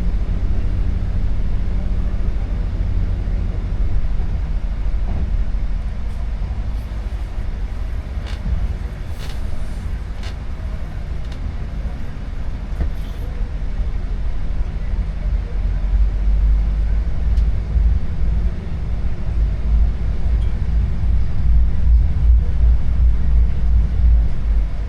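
Boat engine running steadily with the vessel underway: a constant low rumble that grows louder and pulses in the last third.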